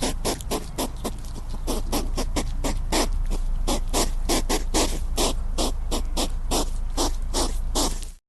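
An animal calling in a fast, even run of short, repeated calls, about four or five a second, over a steady low hum; the calls cut off abruptly near the end.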